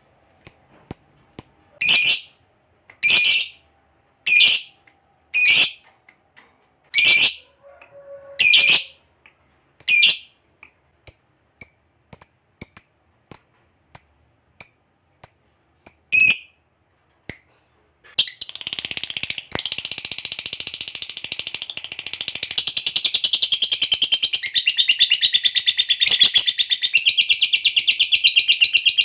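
Lovebird giving loud, sharp, separate chirps, then about eighteen seconds in breaking into a long, unbroken rapid chatter: the 'ngekek panjang' long trill of a chatty fighter lovebird.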